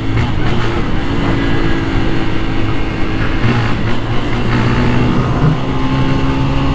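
Honda CG 160 Start motorcycle's single-cylinder four-stroke engine running under way, holding a fairly steady pitch.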